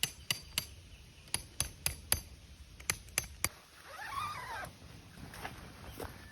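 A hammer striking a metal tent peg: sharp, ringing clinks in three quick groups of three or four. About four seconds in, a bird gives one call that rises and falls in pitch.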